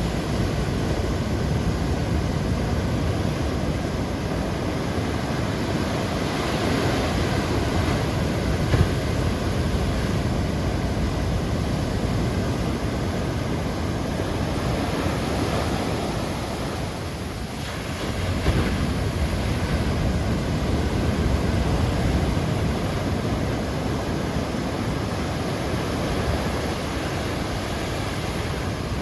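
Large typhoon-driven waves breaking and washing up a beach: a continuous, loud rush of surf, easing briefly about two-thirds through before the next wave surges in.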